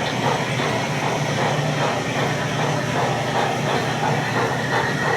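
HO scale model steam locomotive running with its onboard sound: a steady run of chuffing and rail noise. A thin high tone comes in near the end.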